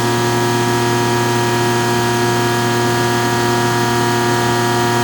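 CNC machining center running a bolt-fluting cycle: a steady whine and hum from the machine over the hiss of flood coolant.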